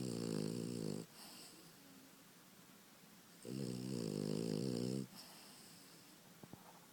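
French Bulldog puppy snoring in its sleep: two loud snores, one at the start and another about three and a half seconds in, each lasting a second or so, with quiet breathing between. Loud snoring is typical of the breed's short, flat muzzle.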